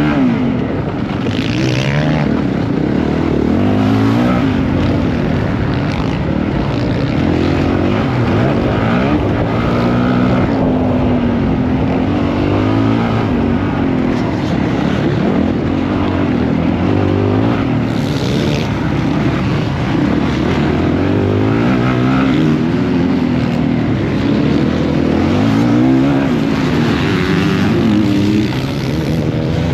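Motocross bike engine racing hard, its pitch climbing and dropping over and over as the rider accelerates, shifts and backs off around the track.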